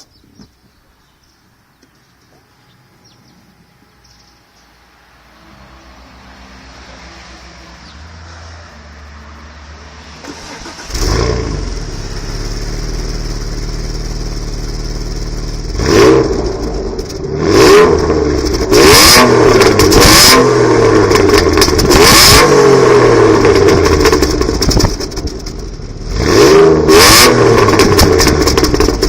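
Alfa Romeo 166's 3.0 V6 engine starting about eleven seconds in after faint sounds, idling briefly, then revved several times, the pitch falling back after each blip, heard through the exhaust.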